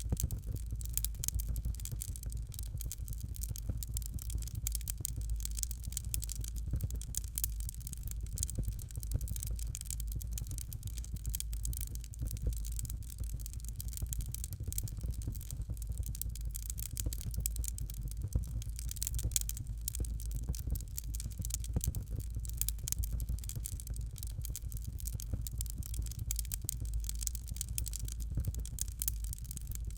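Fireplace fire crackling: a dense, irregular run of small pops and snaps over a steady low rumble.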